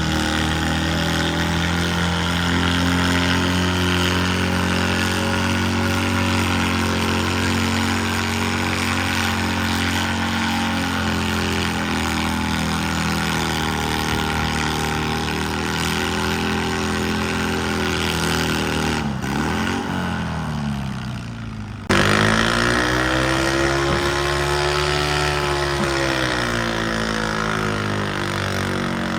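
Garden tractor engine running hard at steady revs under load, its pitch falling away about two-thirds through. After an abrupt change, an engine revs up and then back down.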